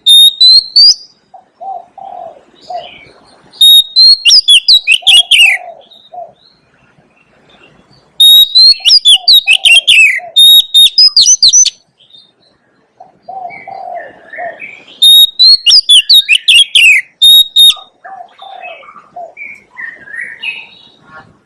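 Oriental magpie-robin singing loudly in four bursts of rapid whistled notes and trills, a few seconds apart, with softer low notes in between.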